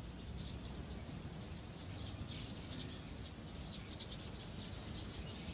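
Faint chirping of small birds in quick, irregular clusters, over a low steady background rumble.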